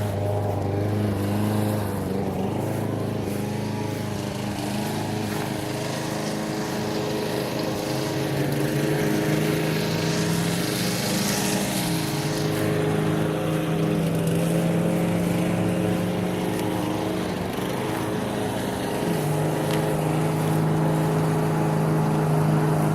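A small engine running steadily, its pitch shifting up and down a few times, with a brief hiss about ten seconds in.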